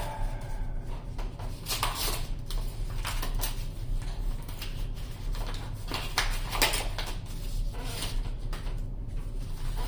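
Yu-Gi-Oh trading cards and packs being handled: scattered rustles and slides of card stock, several louder ones about 2, 3.5 and 6–7 seconds in, over a steady low hum.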